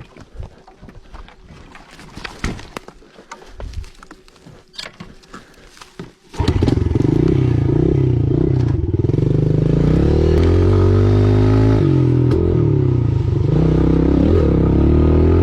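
Irregular crunching and snapping in the forest undergrowth, like footsteps in leaf litter and twigs. About six seconds in, a trail motorcycle's engine suddenly comes in loud and revs up and down as the rider pulls away.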